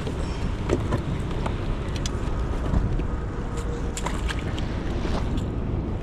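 Steady low rumble of wind buffeting the microphone, with scattered light clicks and ticks over it.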